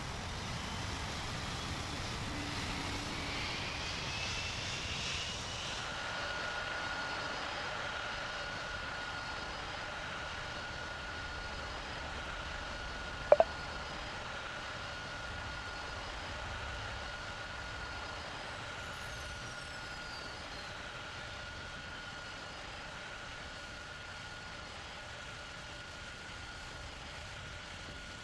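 Boeing 747-400 jet engines running with a steady rush and a thin whine, the whine rising over the first few seconds and then holding steady. A single sharp click sounds about halfway through.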